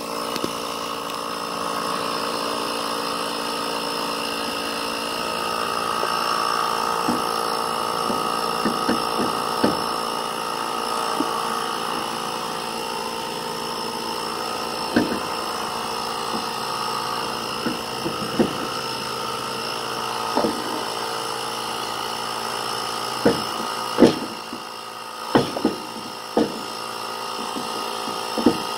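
Ryobi cordless portable inflator running steadily as it pumps up a boat trailer tire, with a series of sharp knocks and clanks, more of them near the end.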